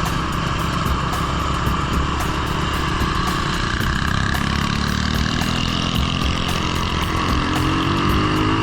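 Small single-cylinder four-stroke engine of an off-road mini bike or three-wheeler running steadily, rising in pitch as it revs up near the end.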